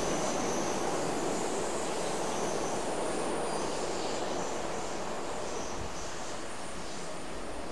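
Electric commuter train running away down the track, its rumble slowly fading as it draws off.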